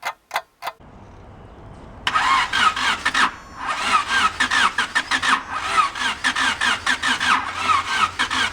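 A few sharp clicks, then from about two seconds in a rebuilt Honda VTEC four-cylinder is cranked on its starter motor: a rhythmic whirring chug that breaks off briefly and resumes, with the engine not catching. The people working on it put this down to the engine being out of time, kicking back against the starter.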